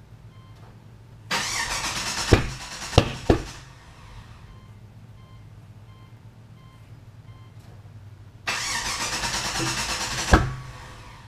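Cammed LQ9 6.0-litre V8 in a Pontiac GTO cranking on the starter twice, about two seconds each time, with a few sharp bangs near the end of each attempt, and not catching. This is the no-start problem that has survived a retune, a new ignition switch and tumbler, and a reprogrammed key.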